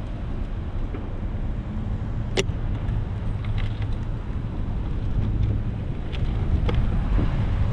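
Steady low rumble of wind and road noise while cycling, with one sharp click about two and a half seconds in and a few faint ticks after.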